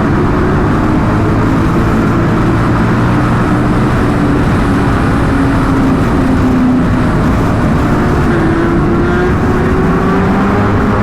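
Sportbike engine running hard at speed, its note dipping through the middle and climbing again near the end, over a steady rushing noise.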